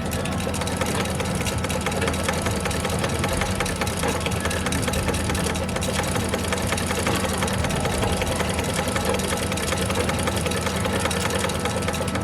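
Restored antique sewing machine running steadily at speed, its mechanism giving a fast, even clatter over a low hum.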